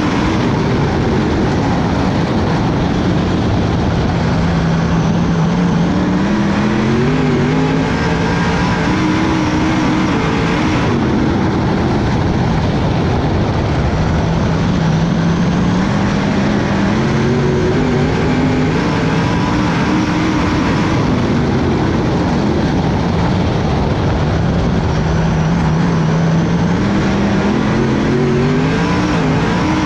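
Dirt-track race car engines running hard around the oval, the pitch climbing on the straights and dropping back for the turns about every ten seconds, over a steady roar of the field.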